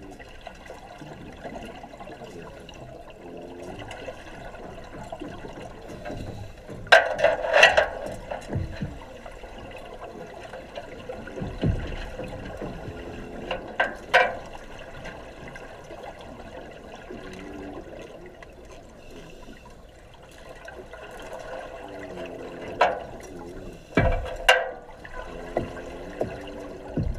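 Underwater sound in a training dive tank: a steady murky rumble broken by several loud bursts of bubbling.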